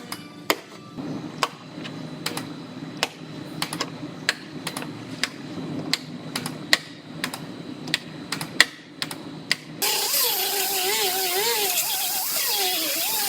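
Bodywork on a sharply creased rocker panel: sharp metallic clicks, about one or two a second, over a low hum. About ten seconds in, a loud hissing power tool starts, its whine wavering in pitch.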